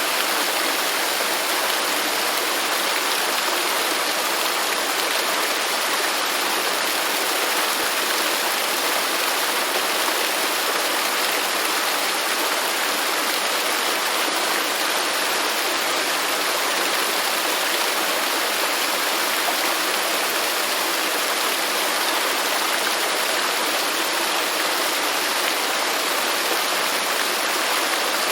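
Waterfall: a steady rush of falling water, an even hiss with little low rumble and no change through the stretch.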